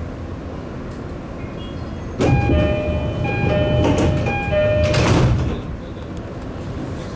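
Commuter train doors closing at a station stop: the electronic door chime sounds a two-note tone several times, then the sliding doors shut with a short rush and thud. A steady hum of the stopped train underlies it.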